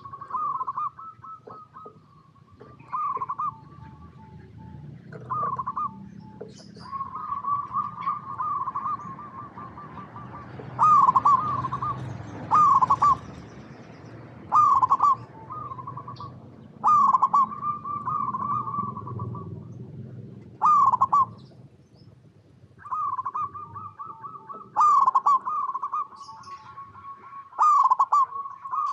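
Zebra dove (perkutut) cooing. Phrase after phrase, each opens with a loud coo and runs into a fast, rolling trill of softer coos, about every one to two seconds, over a low background rumble.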